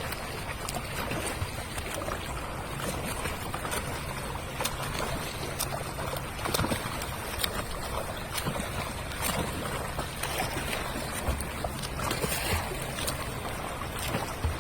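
Seawater splashing and lapping, with many small sharp splashes over a steady wash of water noise and a low hum underneath.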